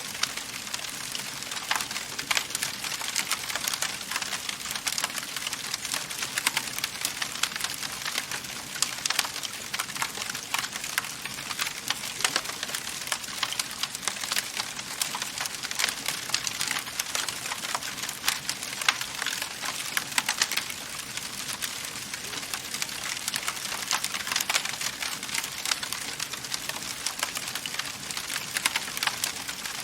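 Wood fire crackling in a fireplace: a steady hiss with many small snaps and sharper pops throughout.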